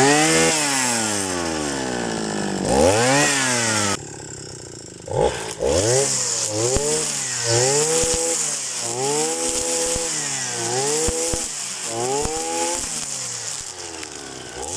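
Petrol brush cutter's engine revving up and down again and again as the throttle is squeezed and let off while cutting grass, dropping back to a quieter idle for about a second, around four seconds in, before revving again.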